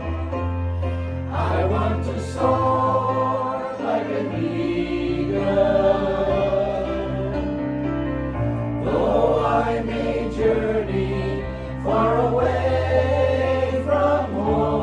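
Gospel choir singing sustained, wordless-sounding chords over held bass notes that change every couple of seconds.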